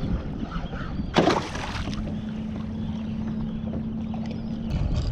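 Kayak on open water, with wind rumbling on the microphone and water against the hull, while a hooked fish is fought on rod and reel. A sudden loud burst of noise comes about a second in, and a steady low hum runs from about two seconds in until shortly before the end.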